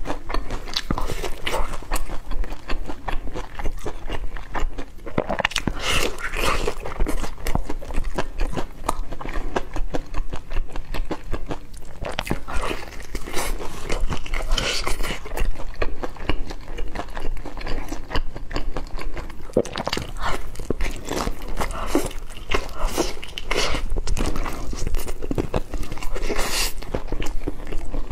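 Biting and chewing crispy fried chicken close to the microphone, a dense run of sharp crackling crunches.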